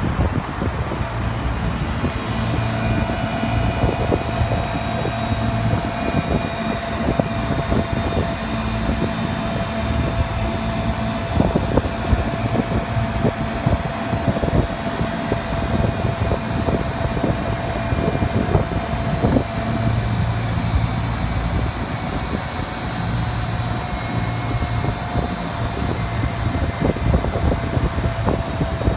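Steady machine drone with a constant mid-pitched whine that dips slightly near the end, overlaid by frequent irregular knocks and buffeting.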